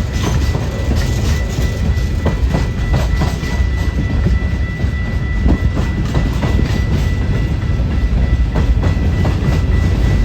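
Train rolling past close by: a steady low rumble, with wheels clacking irregularly over rail joints.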